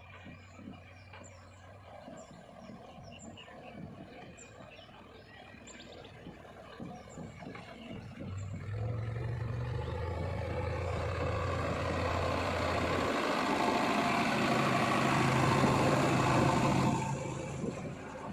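Diesel engine of heavy earthmoving machinery working. A low engine hum comes in about halfway through, and a loud rush of noise builds over it, then cuts off sharply near the end. Faint high chirps repeat about once a second in the quieter first half.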